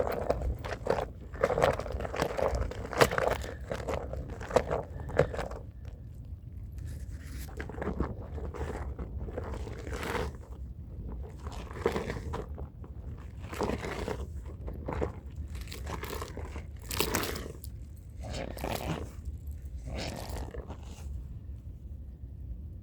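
Stiff hand brush scrubbing a wet, dirty rug: a run of rasping strokes on the pile at an uneven pace, closer together in the first few seconds, over a steady low hum.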